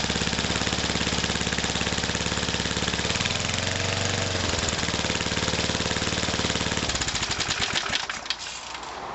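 Single-cylinder Briggs & Stratton lawnmower engine running steadily after a three-pull start, its pitch wavering briefly about three seconds in. About seven seconds in it is shut off, the firing slowing to a stop within about a second.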